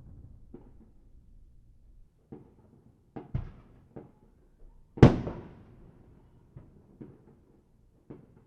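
Distant fireworks going off: scattered low booms and pops, with one loud bang about five seconds in that trails off in a long echo.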